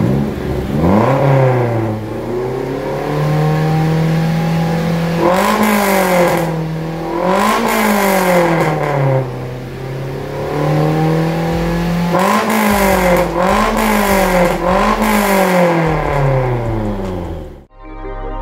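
Vehicle engine with an aftermarket racing exhaust, held at a steady speed and revved up and back down about six times, then cut off near the end.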